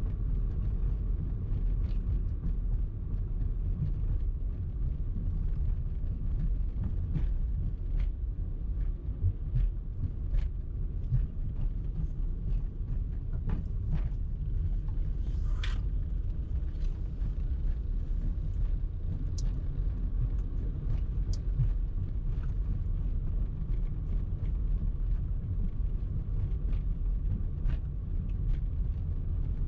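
A car being driven, with steady low rumble of road and engine noise. Light scattered clicks run through it, and there is a short hiss about fifteen and a half seconds in.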